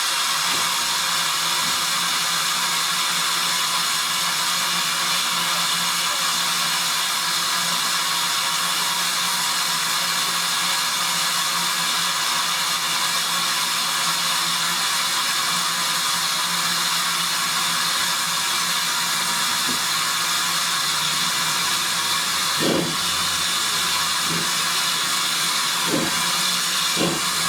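Steam locomotive letting off steam in a steady, unbroken hiss, with a low hum underneath and a few short knocks near the end.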